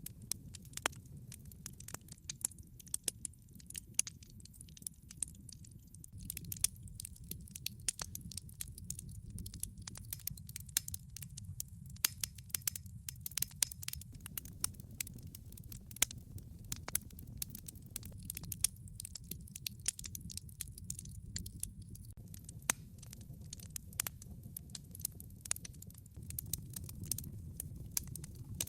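Wood fire burning, with frequent irregular sharp crackles and pops over a low steady rumble of the flames.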